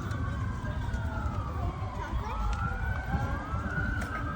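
Emergency vehicle sirens wailing: two slow rising-and-falling tones overlap out of step, over a low rumble.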